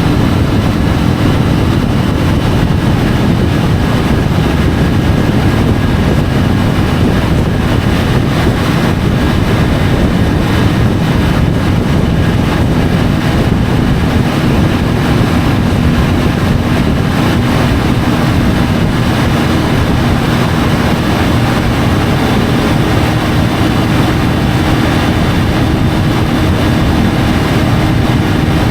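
Triumph Tiger 850 Sport's inline three-cylinder engine running at a steady cruise, heard through heavy wind and road noise on the bike-mounted camera. The engine note holds steady with no revving or gear changes.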